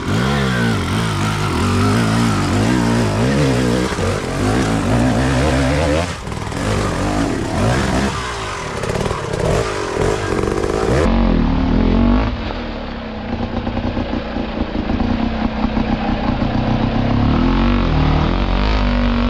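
Off-road motorcycle engine running under constant throttle changes, its pitch rising and falling as it is revved and eased off, then holding steadier in the second half. A few clatters come through around the middle.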